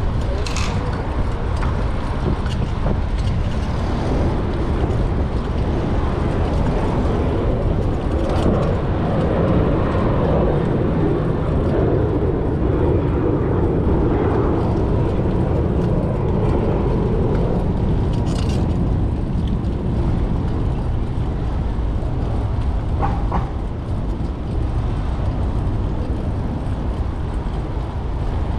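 Road traffic heard from a bicycle in city streets: a steady low rumble of vehicles, with a louder vehicle passing over several seconds in the middle and a few short sharp sounds.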